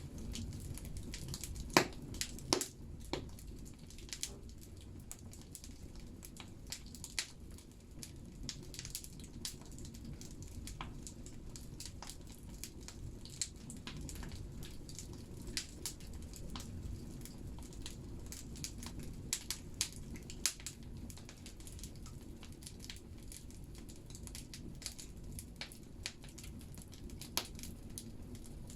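Firewood burning in a wood-fired banya stove: irregular sharp crackles and pops over a steady low rumble of the fire, the loudest pops about two seconds in.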